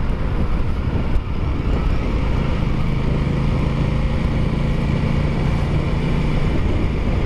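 Aprilia Tuono 660's parallel-twin engine running steadily under way, with rushing wind noise. The engine note drops away briefly about a second in, then holds steady again.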